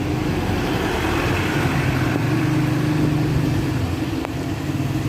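An engine running steadily at an even speed, a low hum, with a single faint click about four seconds in.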